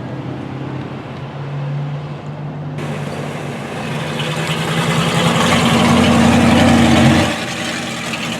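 A car engine running and being revved, climbing in pitch and loudness over several seconds, then dropping back abruptly near the end.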